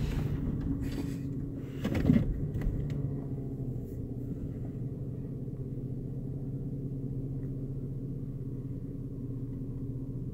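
Vehicle engine idling steadily, heard from inside the cab, with a brief louder noise about two seconds in.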